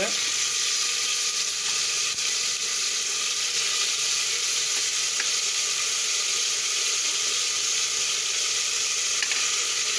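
Ginger-garlic paste frying in hot oil with a loud, steady sizzle, just after it has been added to the tadka of bay leaf, green chillies and cumin.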